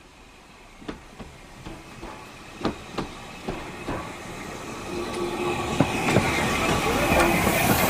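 Steam-hauled train approaching and growing steadily louder, its wheels clicking over the rail joints with a hiss rising underneath.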